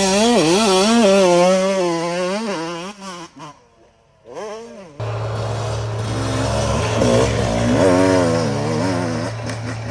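Dirt bike engine revving up and down under throttle as the bike rides the track, dying away about four seconds in. Then a steady low hum comes in suddenly, with another dirt bike engine rising and falling in pitch over it.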